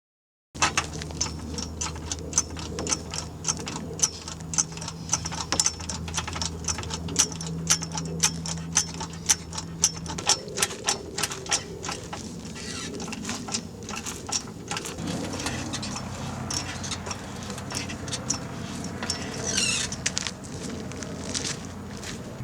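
Sharp clicks, two or three a second, over a steady low hum, from tool work on a car. The clicks thin out after about ten seconds, giving way to rougher, scraping sounds.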